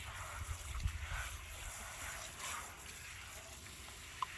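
Water splashing and sloshing as a soapy container is rinsed out, with a short sharp blip near the end.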